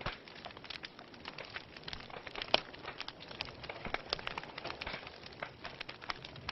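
Wood fire burning in a fireplace: steady hiss with frequent irregular crackles and pops, one louder pop about two and a half seconds in.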